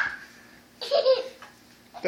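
A young child's short giggle about a second in, just after the fading end of a loud shriek at the very start.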